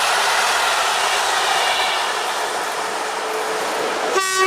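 Intercity passenger coaches rolling past with steady rail noise and a faint wheel whine. Near the end, an approaching ET22 electric locomotive hauling coal wagons sounds a short horn blast, the Rp1 'attention' warning signal.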